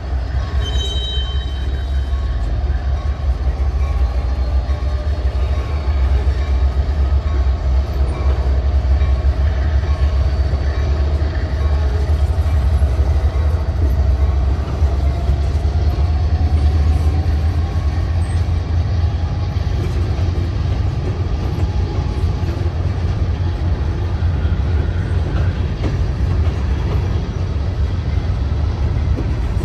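An empty grain train's covered hopper cars rolling past on the rails, a steady heavy rumble.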